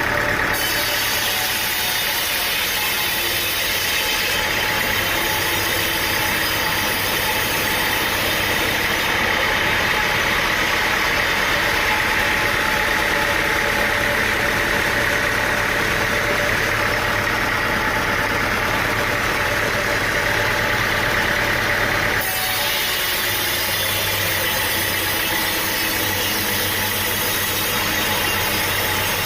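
A machine's engine running steadily under load-free, even noise, the sound changing abruptly just after the start and again about 22 seconds in.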